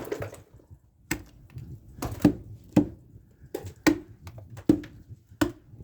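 Thick icicles being struck and knocked down: about eight sharp knocks at uneven intervals, each with a short dull ring.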